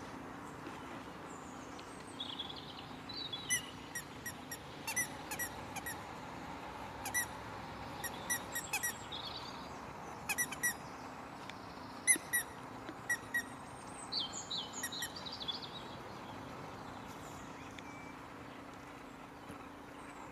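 Small birds calling: clusters of short, high squeaky chirps in quick runs of three or four, with a few gliding whistled notes, over a steady outdoor background hum.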